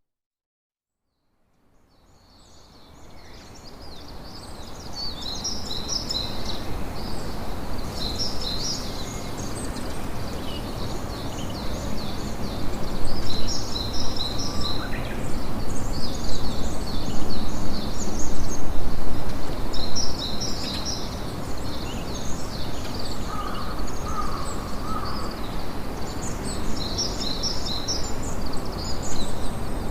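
About two seconds of silence, then a steady campfire ambience fades in: a dense, continuous crackling hiss with birds chirping in quick high-pitched clusters over it.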